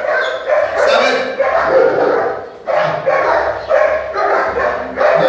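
German Shepherd barking repeatedly in a quick run of loud barks, with a short break about two and a half seconds in.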